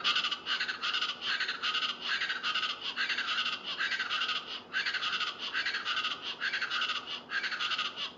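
East Brazilian chachalacas calling: a loud, unbroken run of repeated notes that stops abruptly near the end.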